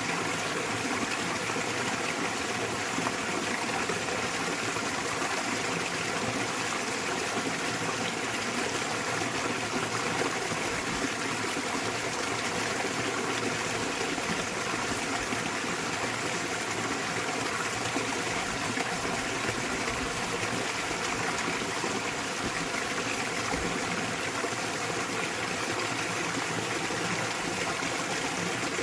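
Small waterfall in a mountain valley stream, water splashing and rushing in a steady, unbroken flow.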